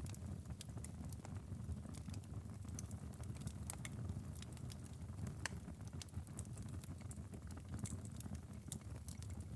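Wood fire crackling in a fireplace: irregular sharp pops and snaps scattered over a low steady rumble.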